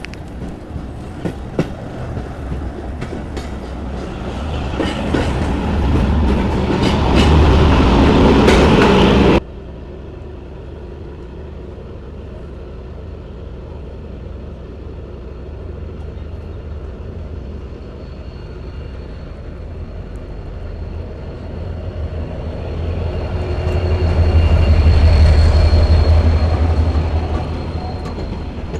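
Passenger train running along the track, with rail clicks and a rumble that grows louder and then cuts off abruptly about nine seconds in. The rumble goes on quieter and steady, with a faint high steady tone, and swells again near the end.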